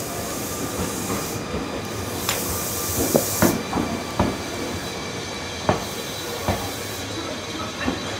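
Disabled two-car Tobu 10030-series electric train rolling slowly past while hauled by a rescue train, its wheels knocking irregularly over rail joints and points. There is a burst of hiss about a second and a half in that lasts about two seconds.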